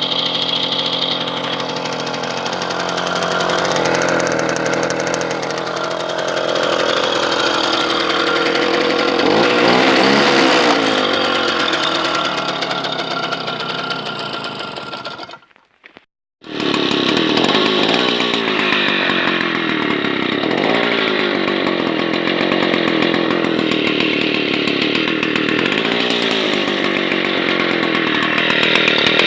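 Small petrol engines running loudly, as on a moped or motorcycle. The first one revs up and back down about ten seconds in, then cuts off abruptly; after a second's gap a second engine runs steadily.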